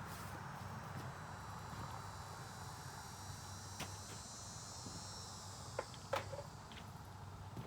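Insects, crickets or similar, chirring steadily in the background, with a few short light clicks and taps in the second half.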